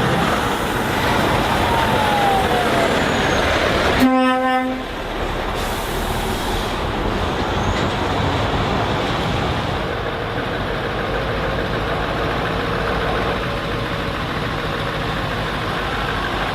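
Heavy trucks running and passing, with one short truck horn blast about four seconds in.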